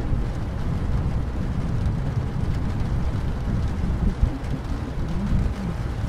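Rainstorm ambience: steady heavy rain with a continuous low rumble underneath, and a brief soft thump about four seconds in.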